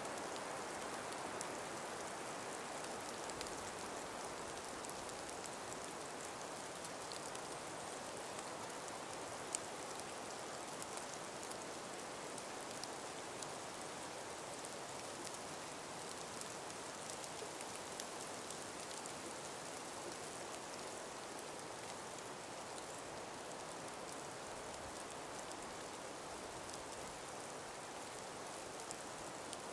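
Calm winter breeze through an ice- and snow-laden forest: a steady, soft hiss with scattered small ticks, one sharper tick about ten seconds in.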